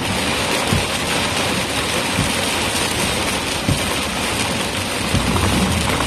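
Rain hitting a moving car, a steady hiss over road noise, with a low thump about every one and a half seconds.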